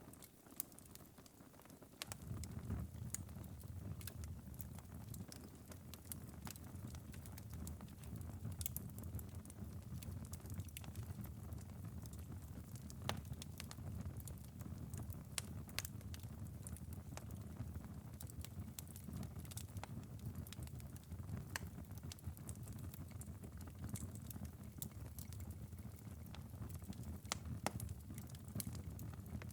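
Wood-burning fireplace's glowing ember bed crackling: sparse, irregular sharp pops and ticks over a low steady rumble that comes in about two seconds in.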